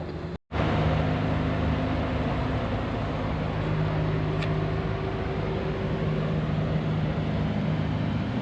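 Steady mechanical drone holding a few constant low tones over a noisy hiss, after a brief total dropout in the audio about half a second in.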